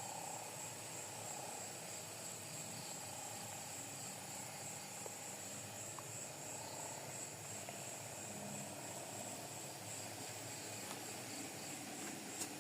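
Night insects, crickets among them, trilling steadily in a faint high chorus, with a lower pulsing chorus beneath and a soft background hiss.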